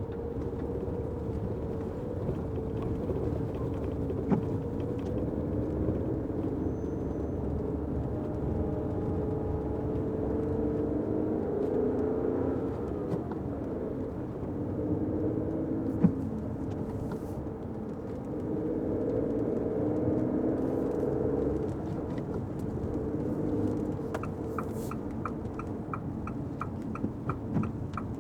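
Fiat 500X heard from inside the cabin while driving: steady road and tyre rumble with an engine note that rises and falls. A few seconds before the end the turn-signal indicator starts ticking steadily, about three ticks a second.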